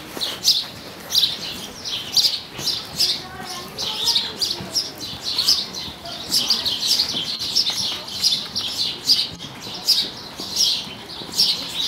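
Small birds chirping in a steady run of short, high chirps, about two or three a second.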